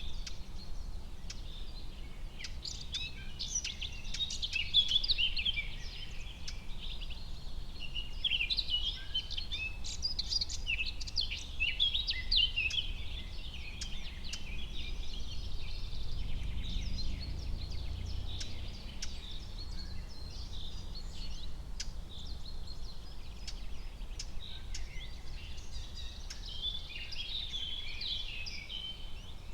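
Forest ambience of many small birds chirping and singing over a low, steady rumble. The birdsong is busiest in the first half and picks up again near the end.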